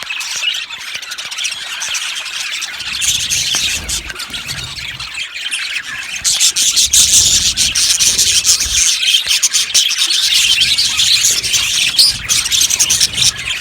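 A flock of budgerigars chattering, chirping and squawking all at once. The chatter gets fuller and louder about halfway through.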